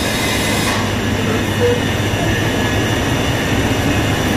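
Southern electric train alongside the platform, giving a loud, steady rumble with a low hum underneath.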